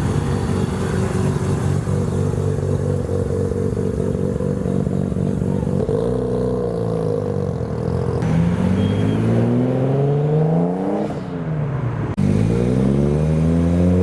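Car engine running steadily, then accelerating with its pitch rising; after a sudden break about twelve seconds in, an engine rises in pitch again.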